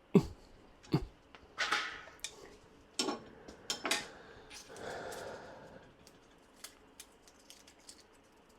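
Scattered metal clicks, knocks and a short scrape from tools and small steel parts being handled while the grinder table is shimmed. Two heavier knocks come near the start, and it thins to faint ticks in the second half.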